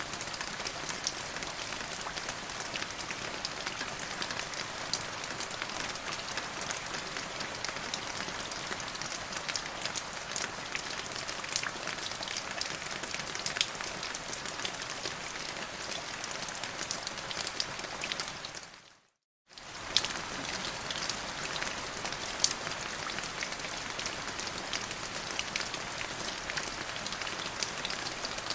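Steady rain falling, a continuous hiss with many distinct sharp drop hits. Just before the two-thirds mark it fades out to silence for about half a second, then comes straight back.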